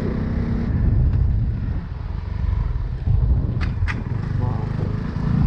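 CFMoto 250 CL-X single-cylinder engine running as the motorcycle rides, under heavy wind buffeting on the microphone. Two short sharp ticks come about two-thirds of the way through.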